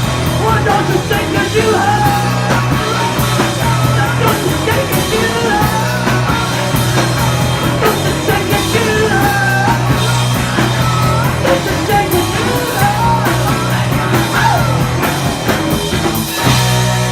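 Rock band playing loudly, with a shouted, sung lead vocal over drums with crashing cymbals, bass and guitars; the song shifts into a new section near the end.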